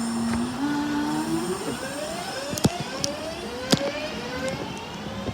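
Electric train's traction motors whining as it pulls away: a steady tone that starts to climb about half a second in and keeps rising in a series of repeating steps. Two sharp clicks stand out in the middle.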